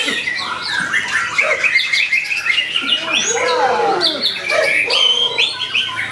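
White-rumped shama song: a fast, unbroken run of varied whistles, short sliding notes and harsh chattering, with some lower curving whistles about three seconds in.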